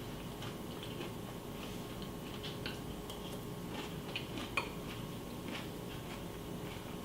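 A spoon clinking lightly and irregularly against a cereal bowl, with one sharper clink about four and a half seconds in, over a steady background hum.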